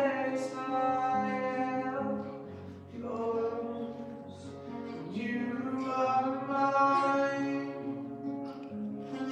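Live worship music: long-held notes with guitar and a steady bass underneath, the pitch moving slowly from note to note.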